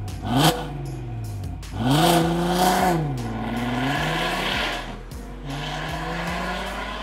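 VW Golf 5 R32's 3.2-litre VR6 engine through a custom valved sports exhaust, revved once about two seconds in, the pitch rising, holding and falling back, then running steadily. Music with a steady beat plays underneath.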